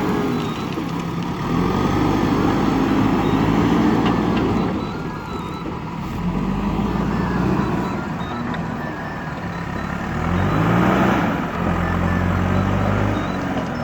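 Diesel engine of a JCB backhoe loader working, its revs rising and falling as it digs and loads, climbing about a second and a half in and again near the end, over a steady thin whine.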